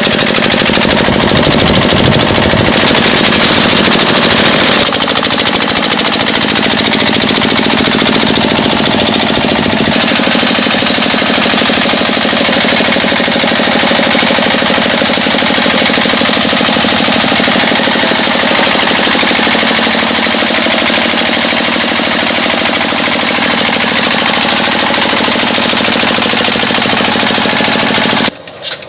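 Small DIY electric motor running hard with a fast, loud rattle, then cutting off suddenly near the end.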